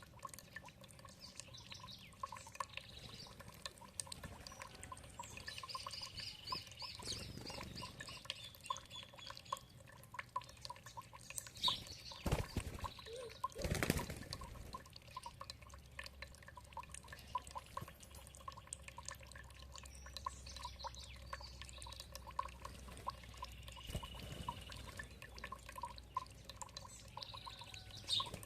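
Water dripping and trickling in a steady patter of small drops, with birds chirping and trilling now and then. Two louder knocks come a little before halfway.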